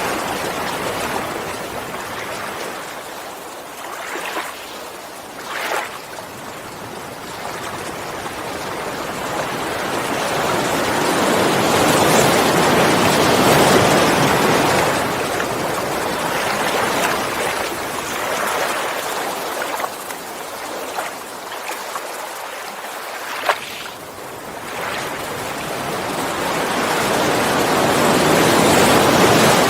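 Sea waves washing onto the shore, the rush of water swelling and falling back slowly over many seconds, with a few brief clicks.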